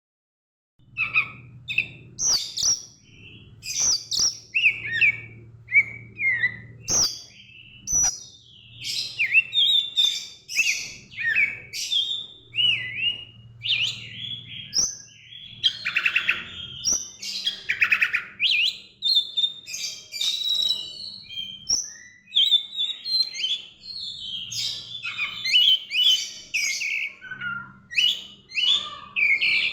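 Oriental magpie-robin (kacer) singing a long, continuous, varied song of whistled phrases, chirps and sharp clicks, with a faint steady hum underneath.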